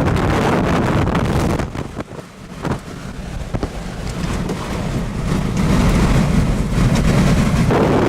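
Strong wind roaring and buffeting the microphone. It eases for about a second soon after the start, then builds back up and holds strong.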